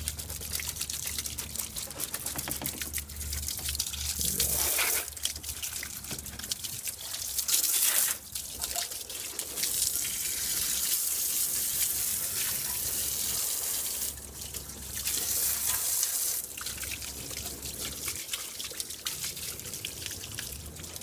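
Water spraying at low pressure onto a car's engine bay, rinsing off degreaser. The hiss of the spray swells and fades several times as it is moved around.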